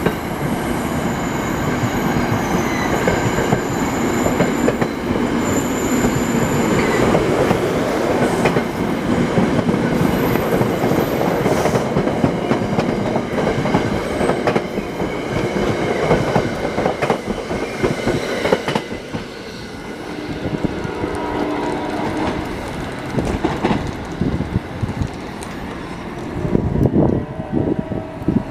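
NJ Transit commuter train's Comet coaches rolling past at close range, wheels clicking over rail joints, with faint high wheel squeals in the first half. The sound thins out after about nineteen seconds and swells again near the end.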